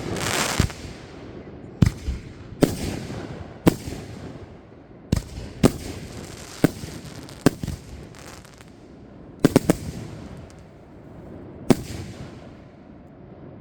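Consumer fireworks going off in a string of sharp bangs, roughly one a second and sometimes two or three in quick succession, with crackling between them that dies away near the end.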